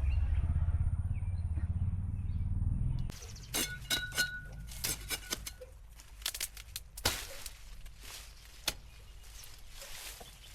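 Outdoor sounds: a loud low rumble for about three seconds that stops abruptly, then scattered sharp clicks and knocks with a few short bird chirps about a second later.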